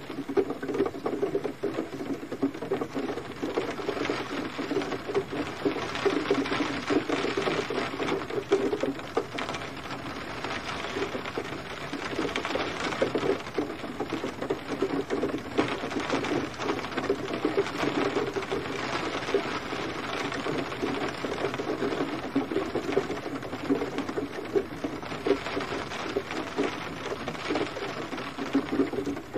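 Gentle rain falling steadily, a dense patter of drops on a surface.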